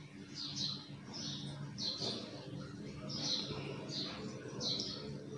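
Small birds chirping in the background, short high chirps repeating about every half second, over a faint low hum.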